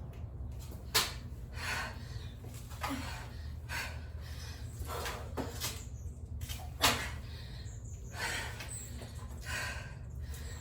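Hard breathing during a bodyweight exercise set, with short exhales about once a second, and thumps of hands and feet on the floor, two of them sharper and louder, over a steady low hum.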